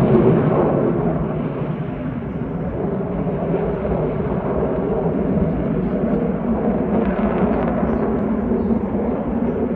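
F-16 fighter jet's engine at high power, a loud steady roar that is loudest at the start and eases slightly after about two seconds.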